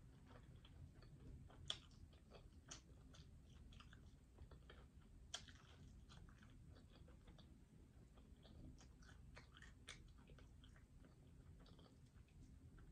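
Faint chewing and gnawing on a chicken wing: many small wet mouth clicks, with two sharper clicks, one a little under two seconds in and another about five seconds in.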